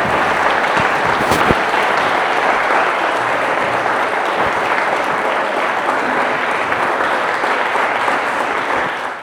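An audience applauding steadily, dense clapping that cuts off abruptly near the end.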